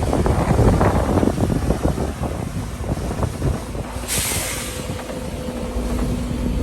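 Heavy diesel earthmoving machinery running, with rattling and clanking in the first couple of seconds. About four seconds in, a dump truck's air brakes give a short hiss, followed by a steady hum.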